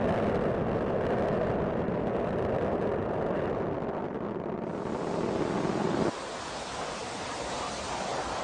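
Space Shuttle ascent noise: a steady, broad rumble from the rocket engines during climb-out. About six seconds in it cuts abruptly to a quieter, hissier steady noise.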